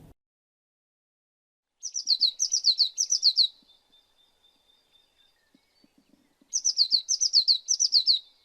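Eurasian blue tit singing: two short phrases of rapid, high-pitched falling notes, about five seconds apart.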